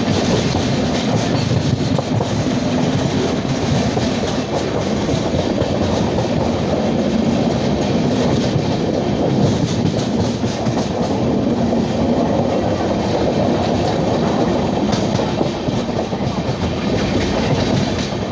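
Passenger train running along the track: a steady rumble of the coaches with fine, rapid clatter from the wheels on the rails.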